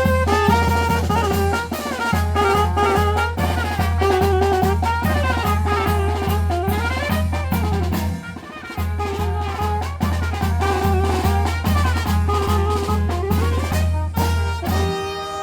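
Brass band playing an upbeat tune, trumpets over a steady drum beat, with a brief break about halfway through.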